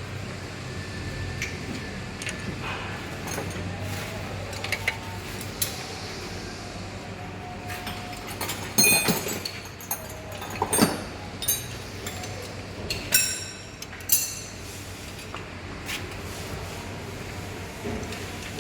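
Metal hand tools clinking and tapping against a transmission fluid line fitting as it is aligned and tightened. A scatter of sharp clinks is loudest through the middle, over a steady low hum.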